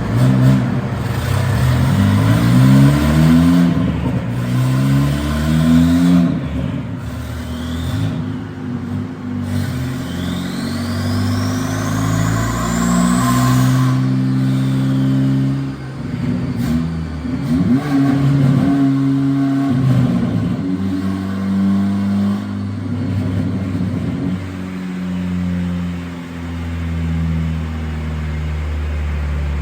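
Honda Civic's turbocharged 1.5-litre L15B7 four-cylinder with an RV6 turbo, revving and running at changing speeds on a dyno during tuning runs. About ten seconds in, a high whine climbs and then falls away.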